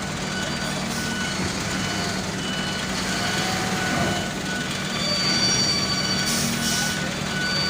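Heavy diesel machinery running steadily with a backup alarm beeping repeatedly, as a bulldozer is driven off a lowboy trailer. A short hiss sounds about six and a half seconds in.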